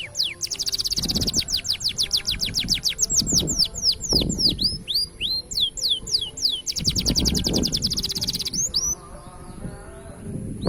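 Green canary singing a long, fast song of rapid downward-sweeping whistles broken by two quick buzzing trills, stopping about two seconds before the end, over background music.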